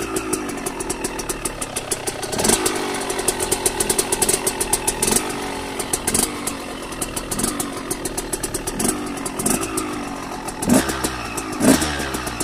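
KTM 125 SX single-cylinder two-stroke engine running after its rebuild, the throttle blipped again and again so the revs rise and fall every second or two over a rapid rattling exhaust note.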